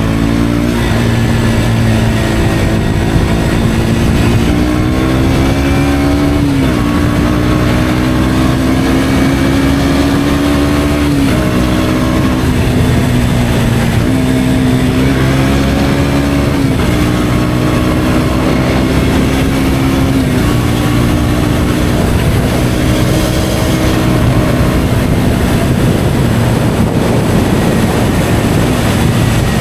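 KTM Duke 125's single-cylinder 125 cc engine with an Akrapovic exhaust, running under way. The engine note climbs slowly and then drops sharply about five times, as it changes gear, and eases lower near the end.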